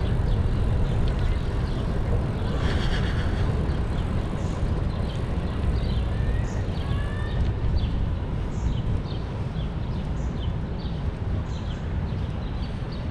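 Steady low rumble of wind on the microphone and city traffic during a bicycle ride, with a string of short, sharp clicks scattered throughout and a brief brighter noise about three seconds in.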